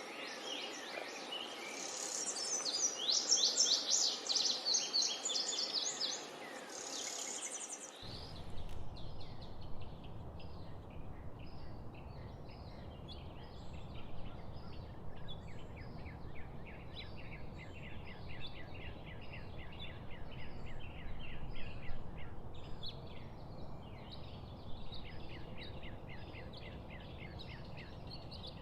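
Wild birds singing: rapid, high, falling trilled phrases for the first several seconds. About eight seconds in, the sound cuts to a different soundscape of continuous fast chirping from birds over a low, steady rumble.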